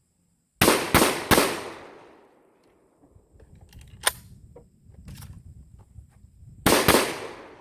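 Mossberg 930 12-gauge semi-automatic shotgun firing three quick shots, then after a pause with lighter clatter and one smaller crack, two more quick shots near the end; each shot rings on afterwards.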